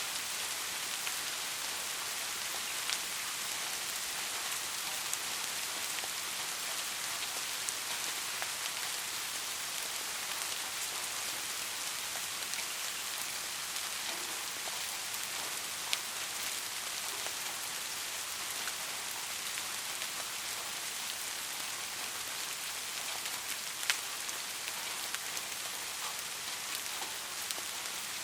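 Steady rain falling, a constant hiss with occasional single louder drop taps.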